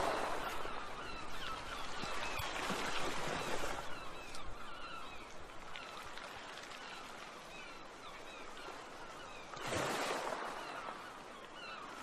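Many birds calling, short chirps coming thick and fast, over a steady rushing background, with a swell of louder rushing noise about ten seconds in.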